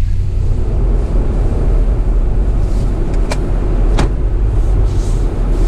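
A van running, heard from inside the cab: a steady low rumble, with two sharp clicks about three and four seconds in.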